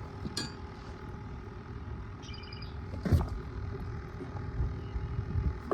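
Steady low outdoor rumble, with a quick run of about five high bird chirps about two seconds in and a sharp knock, the loudest sound, about three seconds in.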